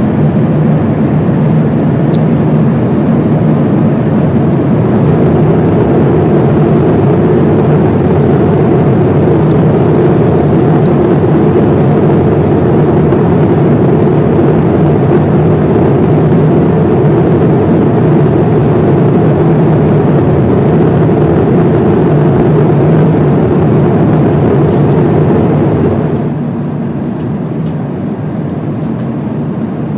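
Steady cabin noise of an Airbus A350-900 airliner in cruise: a loud, even rush of airflow with a low engine drone. It becomes somewhat quieter about 26 seconds in.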